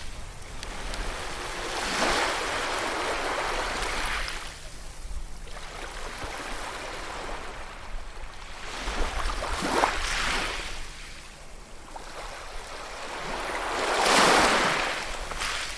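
Sea waves breaking and washing on the shore: three surges of surf swell and fade, about two seconds in, around ten seconds, and the loudest near the end.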